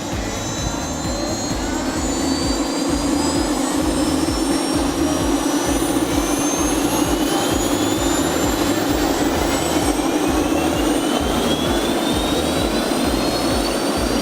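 Helicopter turbine and rotor running, a high turbine whine rising slowly and steadily in pitch over a low, choppy rotor drone.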